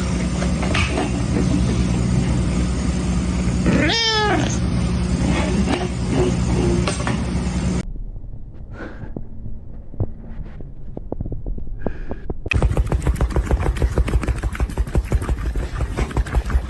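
Cat meowing once in a rising call over a steady low hum, then two fainter calls. After that comes a loud rapid pulsing, about five beats a second.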